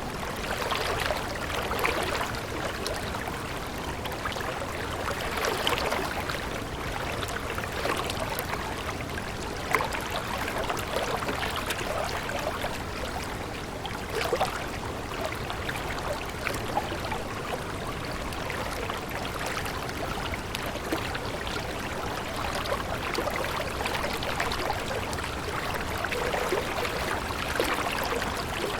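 Water running in a stream, a steady rush with small irregular splashes and gurgles.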